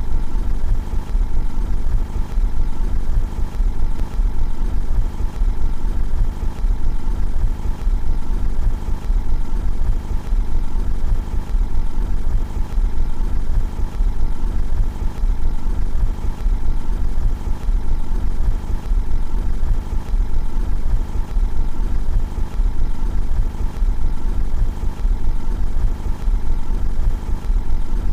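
Car engine idling steadily, heard from outside the car, with an even low hum that does not change.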